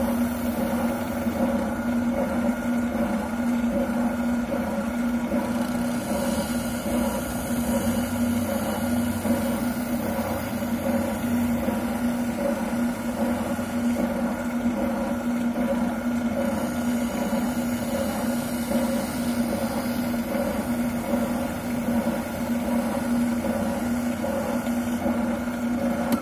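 Wilton oscillating sander running at a steady, unbroken pitch with a continuous hum. A buttplate is being sanded on it, adding a rough grinding hiss over the motor.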